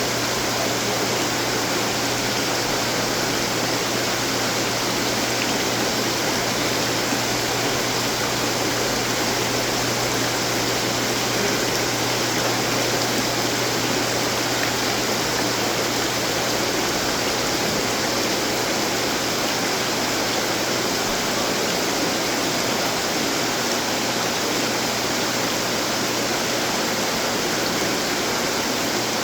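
Water from several garden fountains splashing and trickling steadily, with a faint steady low hum underneath.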